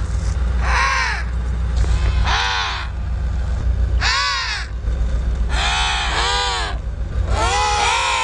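Penguins calling: a run of repeated calls, each rising then falling in pitch, several voices one after another, over a low steady rumble.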